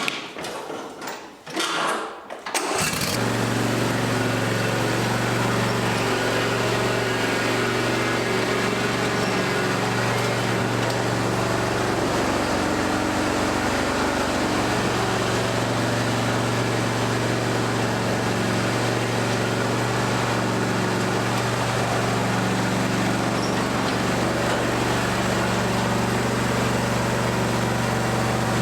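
John Deere D125 lawn tractor engine starting a few seconds in after a few short knocks, then running steadily at an even level.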